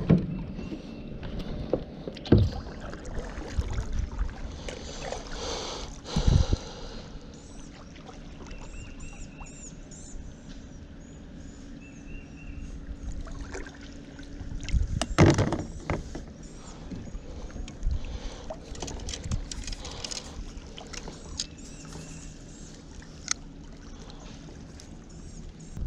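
Kayak being paddled on a creek: paddle strokes splashing through the water, with scattered knocks and thumps, the loudest about 15 seconds in.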